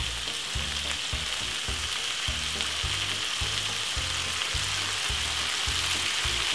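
Meatballs, onions and peppers sizzling steadily in a frying pan, over a regular low beat about twice a second.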